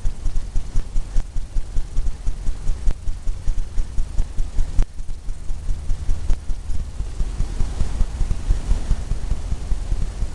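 Fan brush tapping and stroking on a stretched canvas, a fast, even run of low taps, about four a second, as titanium white is worked down from the top of a painted wave.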